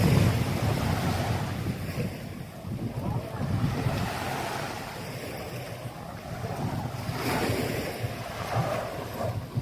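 Wind buffeting the microphone in gusts, over the steady wash of surf.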